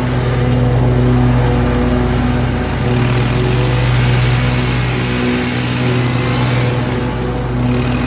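Lawn mower engine running steadily at high throttle, its pitch dipping slightly a few times under load.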